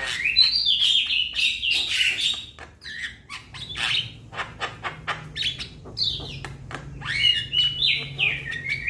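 Young Javan myna calling: rapid runs of harsh clicks and chirps mixed with short whistled notes. A similar chattering phrase comes back near the end.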